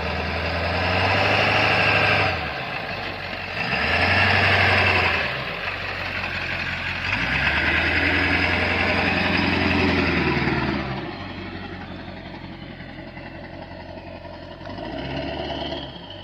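Ford F-250's 7.3 Power Stroke turbo-diesel V8 working under load in four-wheel drive through a steep ravine, revving up in several surges of a few seconds each and easing back to a steady lower run in between.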